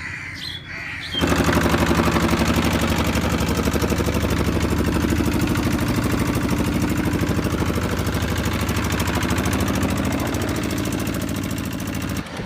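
An engine running steadily with a fast, even firing beat. It comes in abruptly about a second in and stops just before the end.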